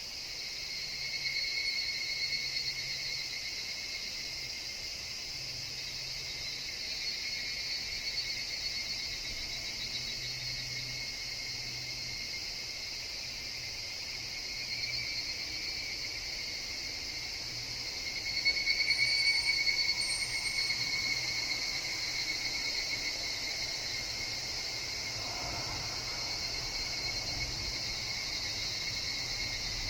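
A chorus of higurashi (evening cicadas) calling steadily, swelling louder about a second in and again about two-thirds of the way through as nearer insects join.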